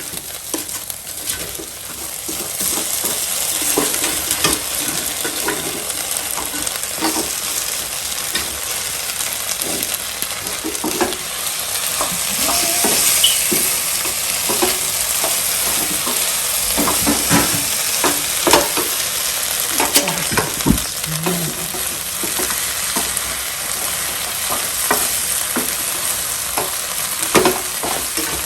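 Chicken lollipops sizzling in sauce in a hot pan while a utensil stirs and tosses them, clicking and scraping against the pan many times.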